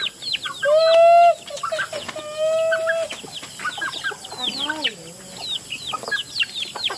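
A flock of chickens gathering to feed, clucking with many short chirps and peeps. Over them come two long drawn-out calls, about a second in and again a second later, as the flock is called in to feed.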